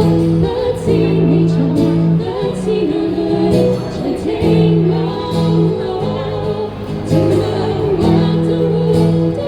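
A live band's amplified music with a singing voice: a sung melody over held bass notes, with short percussion ticks on top.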